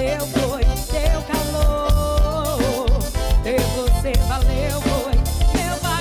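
Forró band playing an instrumental passage: a wavering melodic lead line over a steady drum beat and bass.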